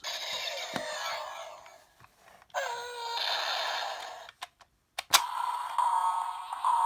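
Electronic sound effects from a Bandai DX Kamen Rider Zero-One toy's small speaker: two hissing electronic bursts, then a few sharp plastic clicks about five seconds in. After the clicks comes a steady pulsing standby tone.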